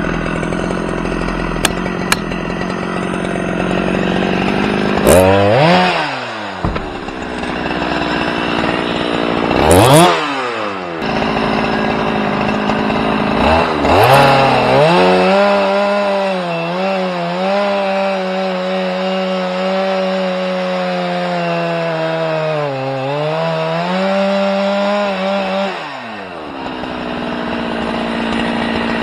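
A small engine idling, revved up and let drop three times in quick blips, then held at high revs for about ten seconds with two brief dips before it falls back to idle near the end.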